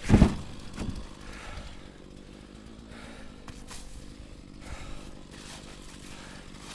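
A heavy oak firewood round lands with a loud thump right at the start, followed by a smaller knock just under a second later. An engine idles steadily underneath throughout.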